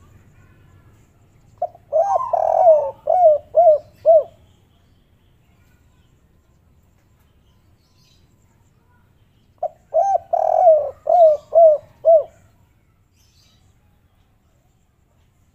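Spotted dove (tekukur/derkuku) cooing twice, about eight seconds apart. Each phrase is a rolling coo followed by three short clipped notes, the 'kuk 3' call style prized by dove keepers.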